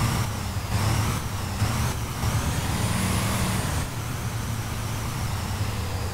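Blue Bird Vision school bus driving, with its engine running as a steady low rumble. A high whine climbs to a peak about halfway through, then dies away.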